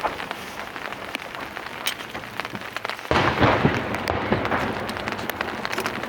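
Rain falling, with many sharp drop taps close to the microphone, under a starmine fireworks barrage; a louder firework burst comes about three seconds in and rings on for about a second.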